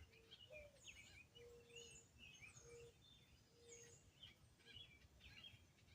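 Faint scattered chirps and short downward-sliding high calls from young eastern bluebirds.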